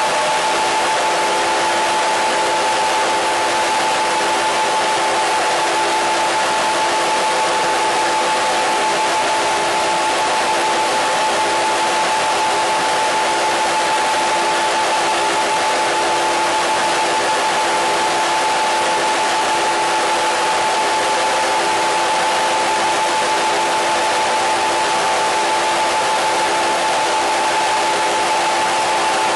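Continuous static-like hiss with a few steady tones running through it, one clear tone in the upper middle and fainter lower ones, unchanging in level throughout.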